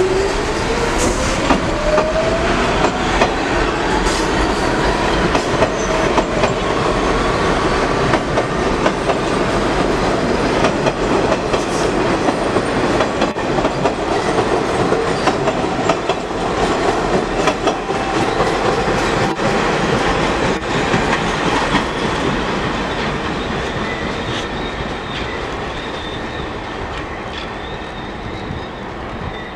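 Train running past with its wheels clicking over the rail joints. A whine climbs in pitch over the first few seconds, then holds steady, and the sound eases off slightly near the end.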